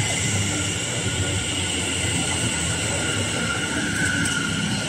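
Electric multiple-unit passenger train running past along the platform: a steady rumble of wheels on rail with a faint steady whine above it.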